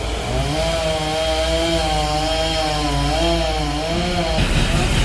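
Two-stroke chainsaw running at part throttle, its engine pitch wavering up and down, turning rougher and noisier near the end.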